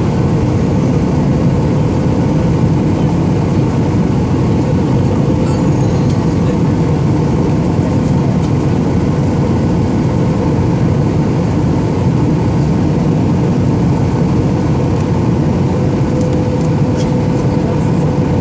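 Airliner cabin noise: the loud, steady drone of the jet engines at high thrust and the rushing air, heard from inside the passenger cabin, with a faint steady hum running through it.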